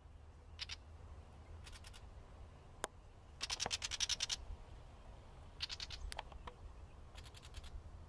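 Small bird's alarm chatter: short, rapid rattling bursts repeated every second or two, the longest and loudest about halfway through, typical of a parent bird scolding a snake raiding its nest.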